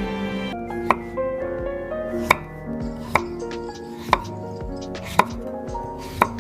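Knife chopping on a cutting board: six separate sharp chops, roughly one a second, over soft background music.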